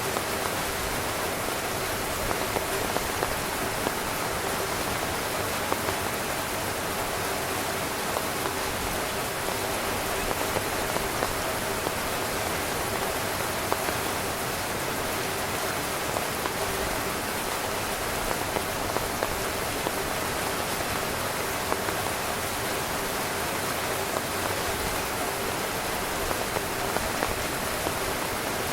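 Steady rain falling on a tent: an even hiss with scattered louder drop hits.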